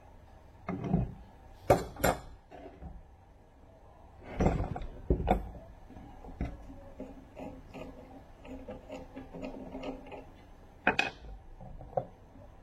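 Metal parts and tools clinking and knocking during hand work on a steering rack, several sharp clinks among lighter handling noise, while a rubber boot is fitted onto the rack.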